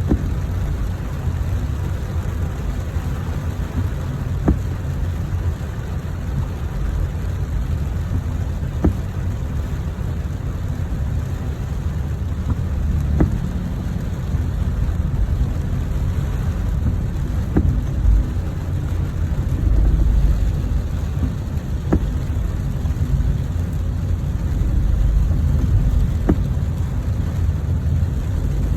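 Steady rain with a heavy low rumble underneath, and a faint click about every four and a half seconds.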